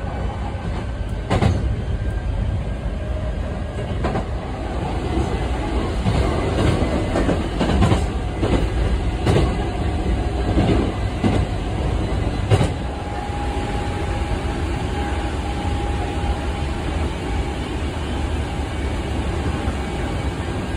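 Hankyu Kyo-train Garaku electric train heard from inside the carriage while running: a steady low rumble, with the wheels clacking over rail joints about ten times at uneven intervals. A steady high tone sets in about two-thirds of the way through.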